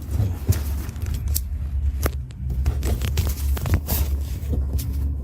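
Irregular clicks, scrapes and rustles of parts being handled, over a steady low hum.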